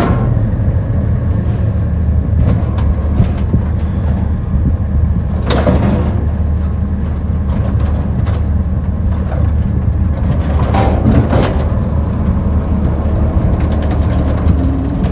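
Diesel engine of a yard-waste garbage truck running with a steady low drone, with a few brief sharper noises over it about five and eleven seconds in.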